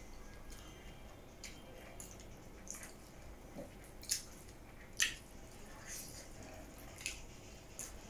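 A person quietly chewing and eating soft dhido by hand, close to the microphone, with scattered short wet mouth clicks and smacks, a couple of them louder about four and five seconds in.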